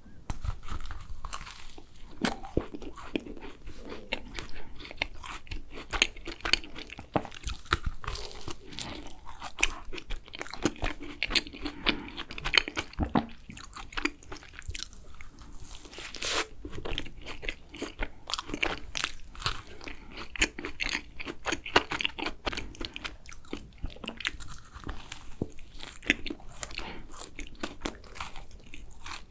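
Close-miked eating of a thick-filled macaron: many small crisp crunches from biting into the shell, mixed with moist chewing throughout.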